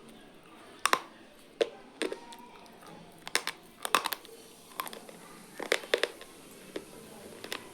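Close-miked chewing of crunchy noodles: a series of sharp, irregular crunches, about two a second.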